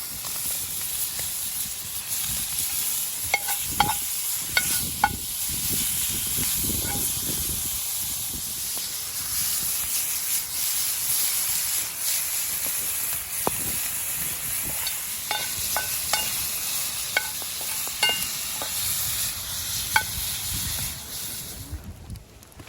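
Bacon and thin slices of elk meat sizzling in rendered pork fat in a frying pan, with scattered clicks and scrapes from a utensil stirring them. The sizzle cuts off suddenly near the end.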